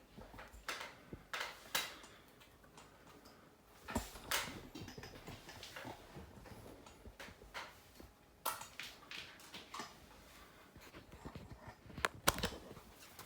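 Handling noise from small repair work on a smartphone: scattered light clicks and taps, with a sharper pair of clicks near the end.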